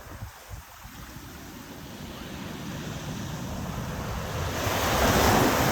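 Ocean waves on a beach: a wave surges in and breaks, its rush swelling steadily to its loudest near the end. Wind buffets the microphone with low thumps at the start.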